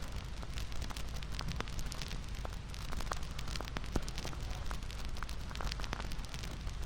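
Wood fire crackling: a steady low rumble and hiss with frequent, irregular sharp pops and snaps.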